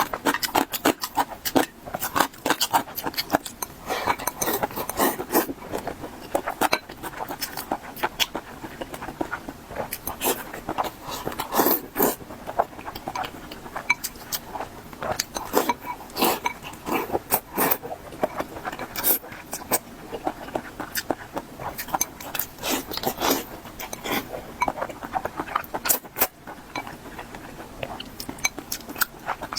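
Close-miked eating: chewing and mouth sounds with frequent small clicks and clinks of utensils against a bowl.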